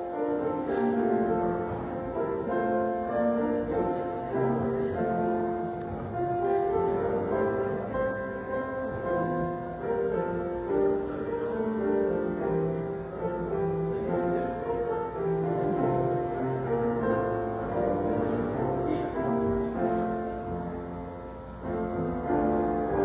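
Slow instrumental keyboard music with held chords that change every second or so, a prelude before the service begins.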